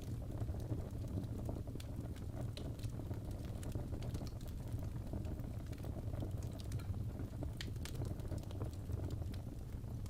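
Wood fire crackling in a fireplace: a steady low rumble of flames with irregular sharp pops and crackles scattered throughout.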